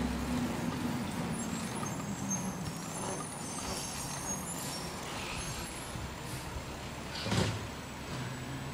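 Garbage truck engine running, its low rumble dropping off over the first second or two, with one short sharp noise about seven seconds in.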